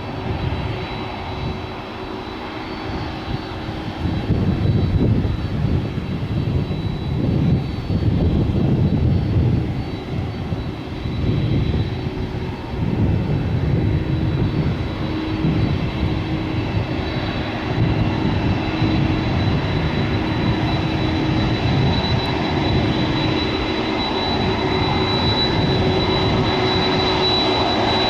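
Jet engines of a Boeing 747-400F freighter running: a rough low rumble that grows louder about four seconds in, with a thin steady high whine over it.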